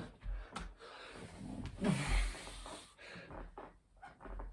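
A man breathing hard in sharp snorting exhalations while doing burpees, with a short voiced grunt about two seconds in. Dull thuds of the body landing on the floor come between the breaths.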